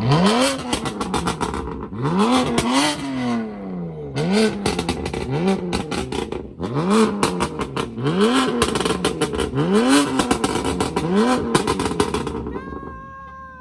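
Car engine revved hard through a loud aftermarket exhaust, blipped up and let fall about every one to one and a half seconds, with a rapid crackling and popping from the exhaust as the revs drop. The revving stops near the end.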